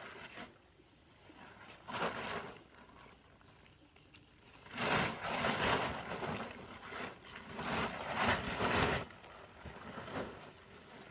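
Steady high insect buzzing, over which come bursts of rustling, scraping noise: a short one about two seconds in and a louder stretch of about four seconds starting around five seconds in.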